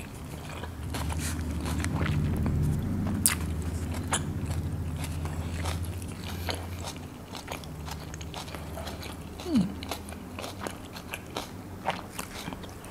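Close-miked chewing of a food wrap, with many small wet mouth clicks. A steady low hum runs under the chewing for about the first half, and a brief falling hum comes about three-quarters of the way through.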